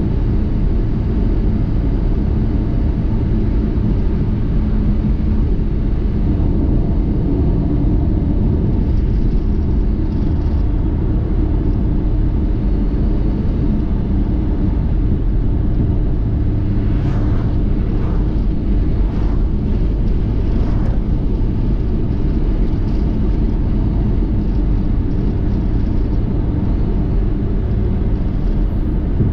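Car on the road, a steady low rumble of engine and road noise.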